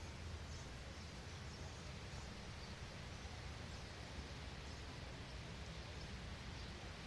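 Faint outdoor ambience: a steady hiss with scattered, faint, high-pitched chirps from birds.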